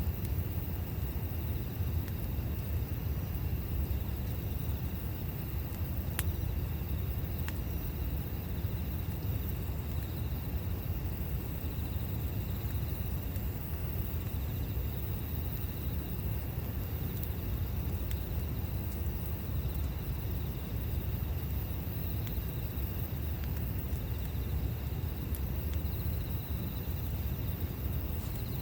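A campfire burning, with a few faint pops and crackles over a steady low rumble, and insects chirping in a steady high tone.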